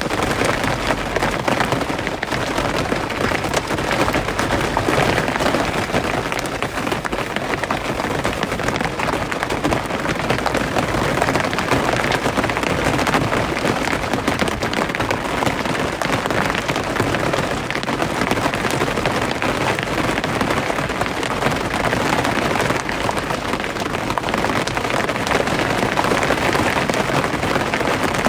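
Heavy rain falling steadily: a dense, even patter of many drops with no let-up.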